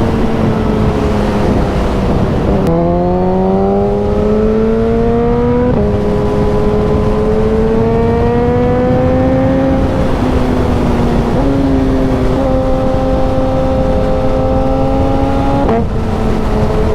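Motorcycle engine pulling hard, its pitch climbing steadily in each gear and stepping sharply at several quick gear changes, over steady wind rush.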